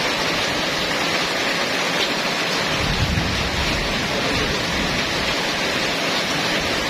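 Heavy rain pouring steadily, a dense even hiss, with a low rumble swelling about three seconds in.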